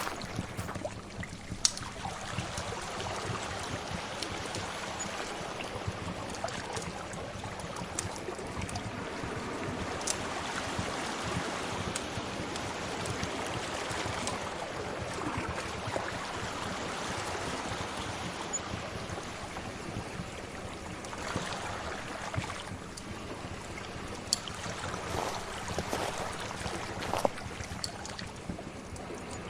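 Sea waves washing in slow swells, with scattered sharp crackles and pops from a wood fire.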